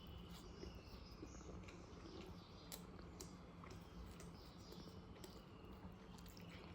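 Faint eating sounds: quiet chewing and scattered small clicks of food and mouth noises over a low steady hum.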